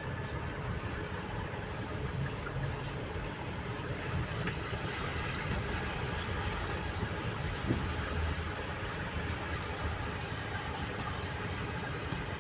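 Road traffic: car engines running steadily.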